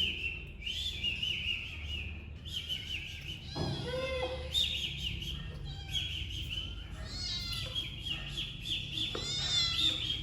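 A litter of kittens mewing over one another in a steady stream of high-pitched cries, with one lower, louder cry about four seconds in.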